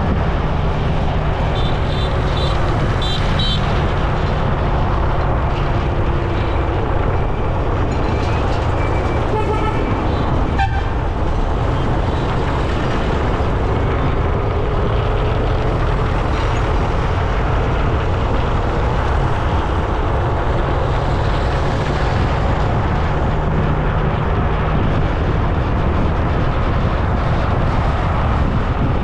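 Road traffic heard while riding, with a steady rumble of wind on the microphone and an engine hum underneath. Short horn toots sound a couple of seconds in and again about eight to ten seconds in.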